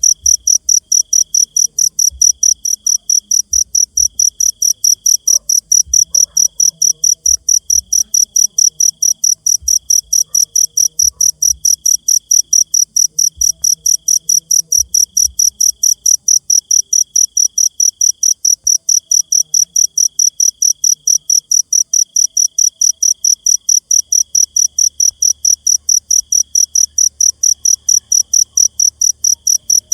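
Cricket chirping loudly in a fast, perfectly regular rhythm. Behind it, a fainter and lower-pitched insect trill comes in short broken runs.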